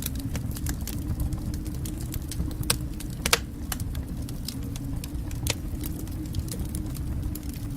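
Wood fire in a fireplace crackling, with irregular sharp pops over a steady low rumble of the flames; a few louder pops stand out near the middle.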